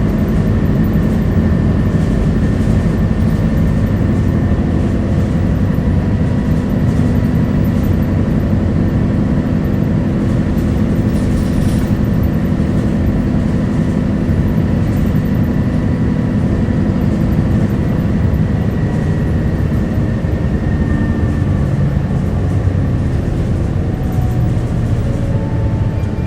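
Steady engine and road drone of a Keio city bus (model QKG-KV290N1), heard from inside while it is under way, with a faint steady whine above it.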